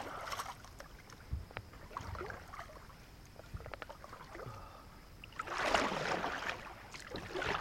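Kayak paddling on calm water: a paddle dipping and pulling through the water, with a few light knocks, and one louder splashing stroke near the end.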